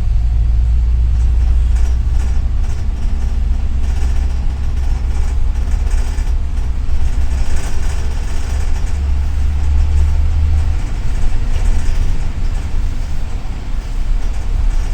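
Engine and road noise of a double-decker city bus heard from inside the cabin: a steady deep drone with rattly noise over it, its low note changing about eleven seconds in.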